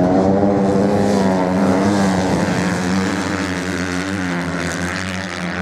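Racing motorcycle engine running on the sand, a steady droning note that holds its pitch and eases slightly near the end.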